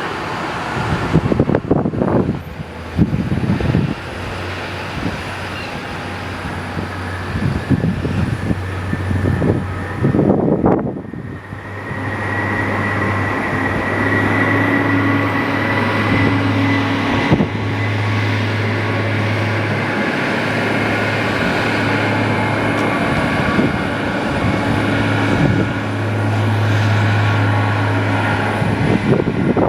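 Aircraft engines running, a steady low hum joined by a steady high whine from about twelve seconds in. Gusts of strong wind buffet the microphone, mostly in the first half.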